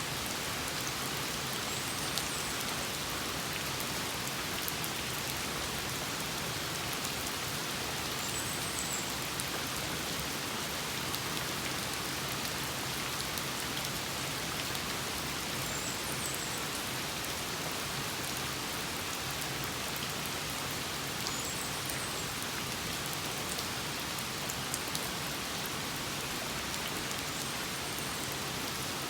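Steady rain falling beside a house, an even dense patter with the odd sharper drip. A faint high chirp recurs about every six seconds.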